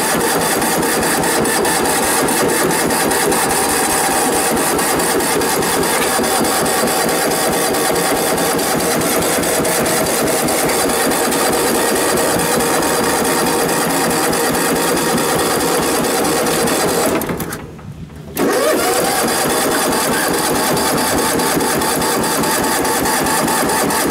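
Small garden-tractor engine sound, steady with a fast even beat. It cuts out about seventeen seconds in and comes back about a second later, rising in pitch as it picks up again.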